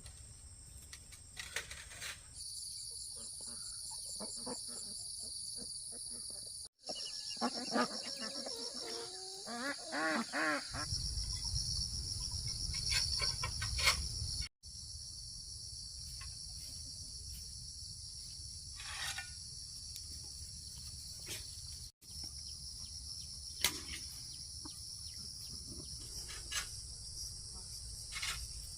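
Insects chirring in a steady, high-pitched drone that breaks off abruptly a few times. For a few seconds, starting about seven seconds in, bird calls that rise and fall in pitch sound over it.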